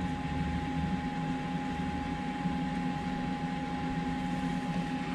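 Kings 75 litre dual-zone portable fridge running, its compressor and fan giving a steady hum with a thin, even whine above it.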